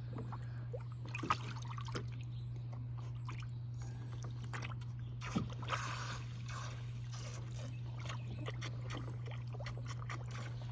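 Water splashing, dripping and sloshing as a dog plays in a shallow dog pool after floating toys, with a few louder splashes about a second in and again around the middle. A steady low hum runs underneath.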